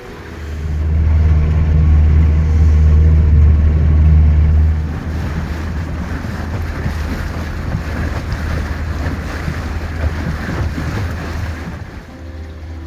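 Shanty boat's motor running under way, a steady low hum that is loudest for the first few seconds, then water and wind rushing against the microphone.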